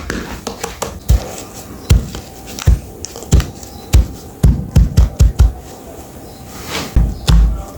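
About a dozen dull thumps at irregular spacing, several in a quick run around the middle, with scratching between them: objects being handled and set down.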